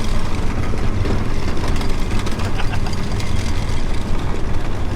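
Prinoth Bison X snowcat's diesel engine and tracks running steadily under load as the machine climbs a steep slope of about 24 to 26 degrees.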